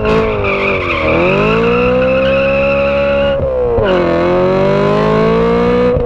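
BMW E90 M3's naturally aspirated 4.0-litre V8 revving hard at high rpm, its pitch climbing steadily through each gear and dropping sharply at gear changes about a second in and again about three and a half seconds in.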